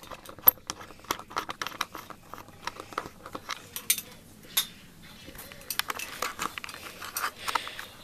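Irregular light clicks, taps and small jangling rattles, several a second at times, with a few sharper knocks.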